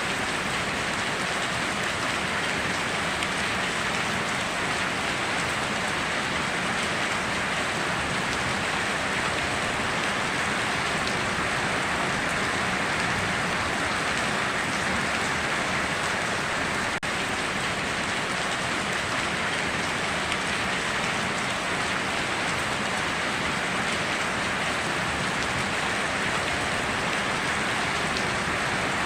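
Steady rainstorm: rain falling and pattering on surfaces as a dense, even hiss that holds at a constant level throughout.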